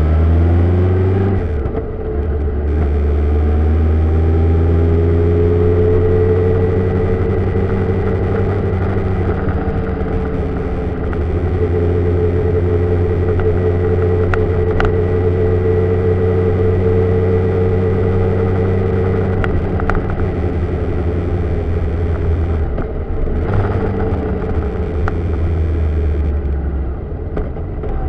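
Vehicle engine and tyre noise picked up by a camera on the mirror arm while driving in rain. The engine note rises in the opening second, drops briefly at a gear change, climbs again and then runs steadily, with another short dip shortly before the end.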